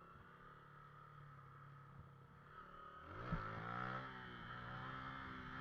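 Motorcycle engine running at low revs, then revved hard about three seconds in, with one sharp knock as the revs climb, and held at higher revs: a rider pulling up for a wheelie.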